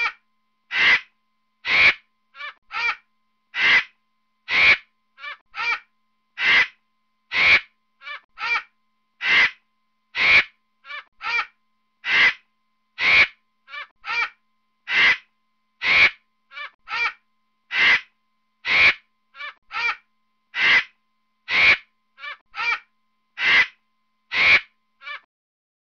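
Harsh, caw-like bird calls given as a vulture's call. They come in a regular repeating pattern: two loud caws about a second apart, then two or three shorter, fainter ones, over and over.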